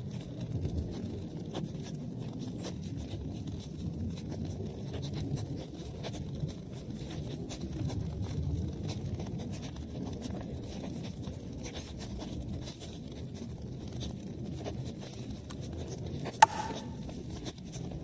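Wood fire crackling in a fireplace: a steady low rumble of flames with scattered small crackles, and one sharp loud pop near the end.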